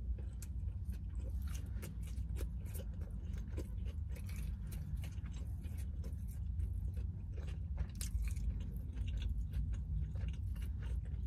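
Close-up mouth sounds of someone chewing a chicken salad sandwich: irregular moist clicks and soft crunches, over a low steady rumble.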